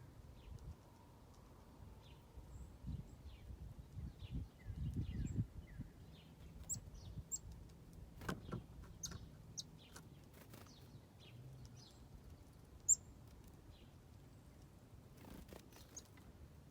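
Small backyard birds chirping in short, scattered calls, with a few sharp high notes among them. There are low thumps in the first few seconds and a couple of sharp clicks.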